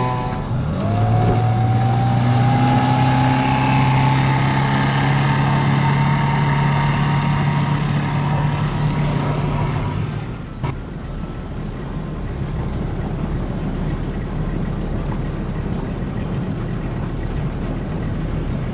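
Small outboard motor running at a steady high speed, its pitch creeping slightly higher. It drops away about ten seconds in with a click, leaving a lower, rougher rumble.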